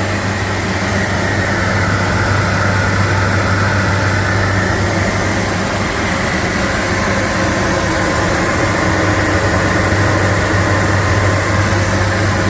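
Biesse Akron 850 edgebanding machine running with no panel going through: a steady, loud motor hum with a strong low drone.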